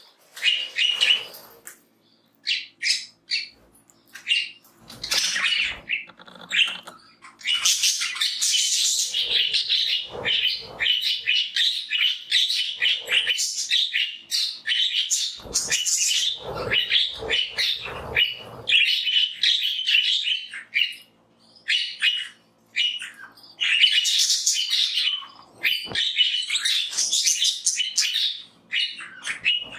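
A flock of pet budgerigars chirping and warbling continuously, many calls overlapping, with a couple of brief lulls near the end.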